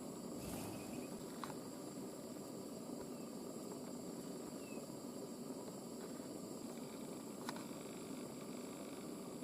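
Steady background hiss with three sharp, isolated taps and a couple of faint, short high chirps.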